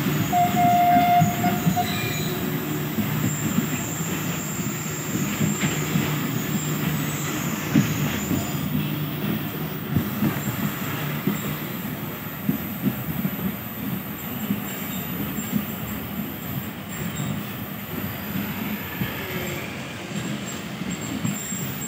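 Passenger train running along the line, heard from an open doorway of one of its own coaches: a steady rumble of wheels on rail with irregular clacks, and a brief high tone about a second in.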